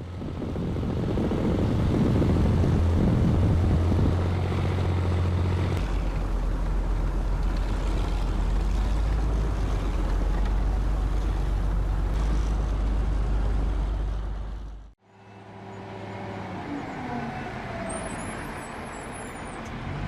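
Heavy vehicle engine running loud and steady with a deep drone that drops lower about six seconds in. It cuts off suddenly about fifteen seconds in, and a quieter engine follows, its pitch rising and falling, with a brief high squeal near the end.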